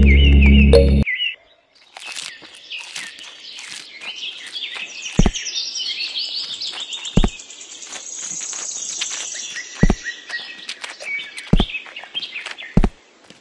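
Background music stops about a second in. Then birds chirp and sing, with a handful of short dull knocks about every two seconds.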